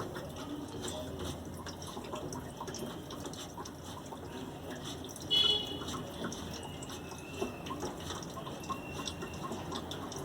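Small, irregular clicks and taps of hand tools and metal parts being worked on the generator's fuel tank fittings. One brief ringing metal clink comes about five seconds in.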